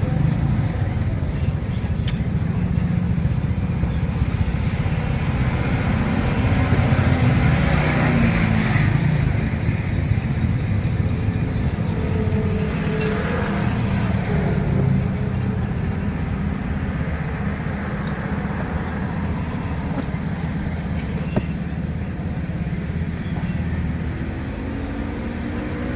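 Road traffic passing on a two-lane road: a steady rumble of car engines and tyre noise, with a louder vehicle going by about eight seconds in and another around thirteen seconds.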